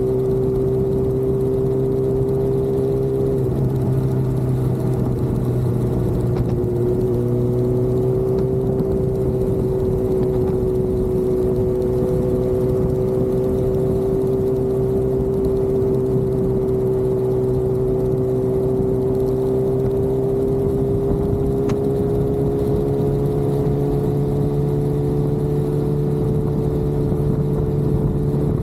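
Motorcycle engine running at a steady cruising speed on a highway, over wind and road noise. The engine note dips briefly a few seconds in, then holds steady and rises slightly near the end.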